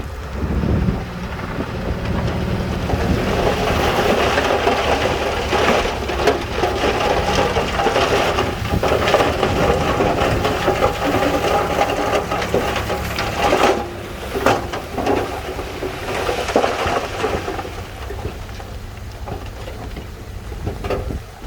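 A load of stone sliding and tumbling with a dense rattling crackle and scattered knocks, building a few seconds in and easing near the end, over a diesel engine running.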